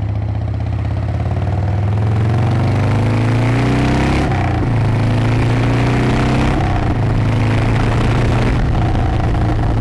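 Harley-Davidson V-twin motorcycle engine accelerating hard through the gears. The pitch rises, drops at an upshift about four seconds in, rises again and drops at a second upshift about two and a half seconds later, then holds at a steadier speed. Wind noise runs along with it.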